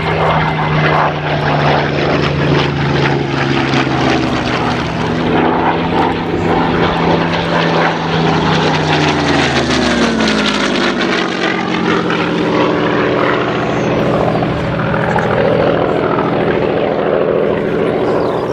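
Vintage V12 piston-engined fighter making a low display pass, engine running strong, its pitch dropping about nine to ten seconds in as it goes by.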